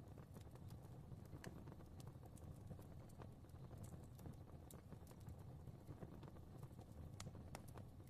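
Fireplace fire crackling faintly: scattered sharp pops and ticks over a steady low rumble of flame.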